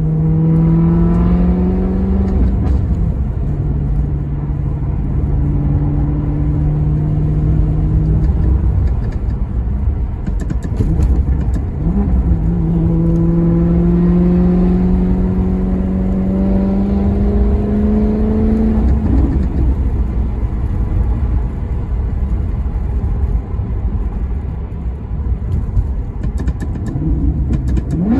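Maserati Quattroporte Sport GT's V8 engine under way: revs climb at the start, then hold a steady note for a few seconds. Near the middle a quick blip is followed by a long, steady climb in pitch as the car accelerates, after which the engine goes off throttle and mostly a low road rumble remains, with another short blip at the very end.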